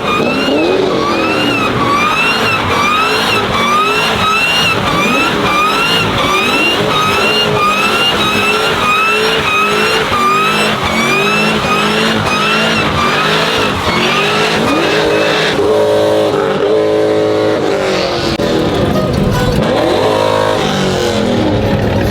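A car doing donuts, its engine revving with the tyres squealing in a repeating rising pattern, about one and a half cycles a second. A little over two-thirds of the way in, the squeal pattern stops and steady held tones take over.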